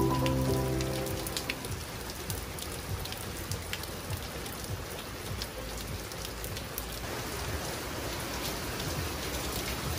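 Heavy rain falling on the water and the boat, a steady hiss with scattered sharper drop impacts. Background music fades out in the first second or so.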